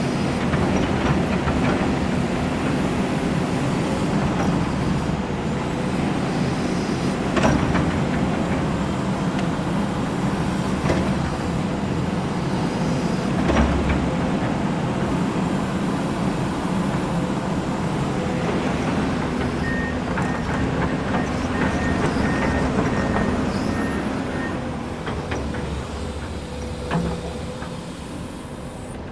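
Komatsu excavator running steadily, with a few sharp metallic knocks. A series of short high beeps comes in past the middle, and the machine fades away near the end.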